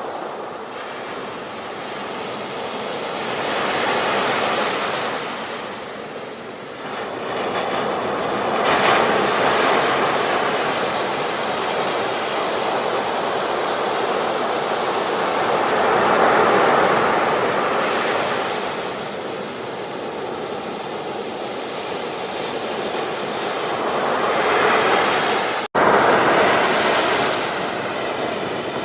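Ocean waves breaking on a beach, a steady surf rush that swells and ebbs as each wave comes in. About four swells in all. The sound cuts out for a split second near the end.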